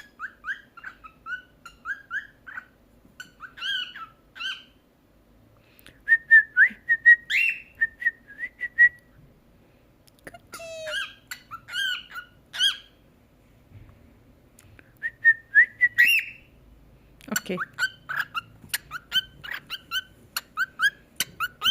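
Cockatiel chirping and whistling in quick runs of short notes, pausing briefly twice.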